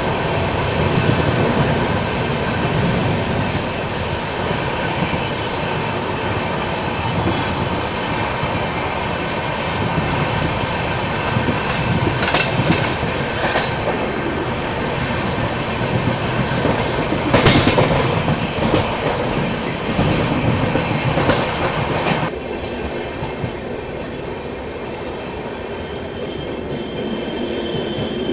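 Indian Railways broad-gauge passenger train running, a steady rumble with wheels clattering over the rail joints. Louder rattling comes about 12 and 17 seconds in, and the noise drops suddenly a little after 22 seconds. A faint high wheel squeal sounds near the end.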